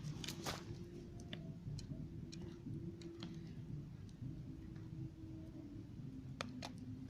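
Small log fire crackling faintly, with scattered sharp pops and ticks at uneven intervals.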